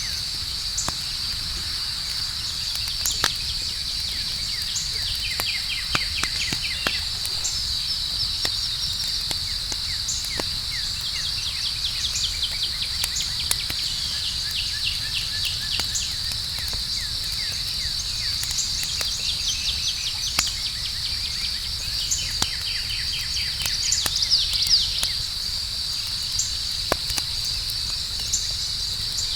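Campfire crackling with scattered sharp pops and a low rumble, over a steady high chorus of night insects with trains of fast chirps.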